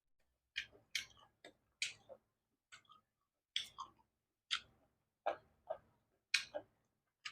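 Close-up chewing of crunchy vegetables: a run of short, sharp crunches, about one or two a second and unevenly spaced.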